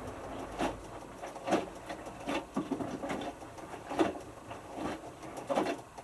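Hotpoint Futura washing machine drum tumbling a small load of T-shirts in water, with a soft thump about once a second as the wet clothes drop. The tumbling stops near the end, leaving a quieter hum.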